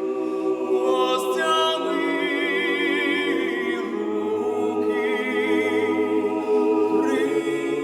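A cappella choir singing long held notes with vibrato, several voices together.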